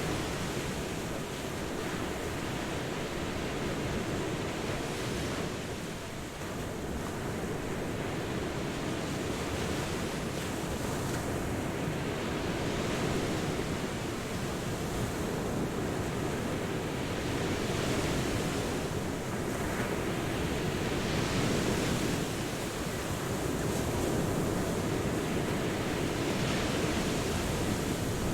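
Ocean waves breaking and washing onto shore, a continuous surf sound that swells and eases gently every few seconds.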